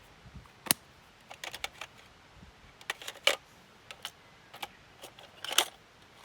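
A series of irregular sharp clicks and light knocks, about a dozen over six seconds, the loudest about a second in, halfway through and near the end.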